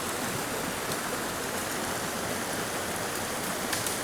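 Swollen mountain creek water rushing steadily, with a couple of faint ticks.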